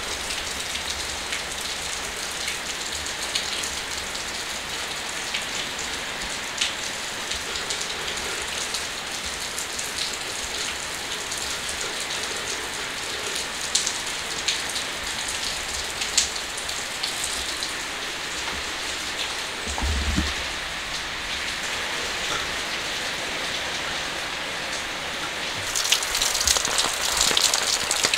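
Steady rain falling, with many separate drops striking a hard surface. There is a brief low thud about twenty seconds in. Near the end the rain grows louder, with the drop hits coming thicker.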